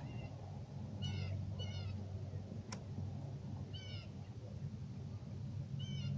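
A bird calling outdoors with short mewing calls, five in all, some in quick pairs. There is a single sharp click partway through, over a low steady hum.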